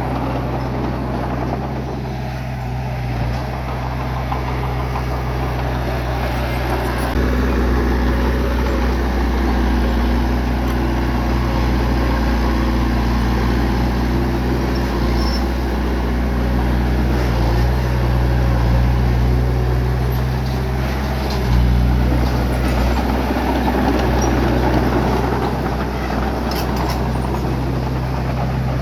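Bulldozer's diesel engine running with a steady low drone, growing louder and heavier about seven seconds in and holding there.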